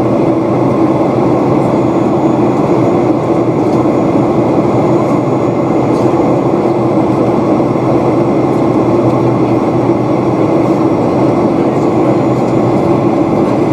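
Steady cabin noise of a Boeing 737-800 in motion: its CFM56-7B engines and the rushing air, heard from inside the cabin as an even, unbroken drone with a steady low hum.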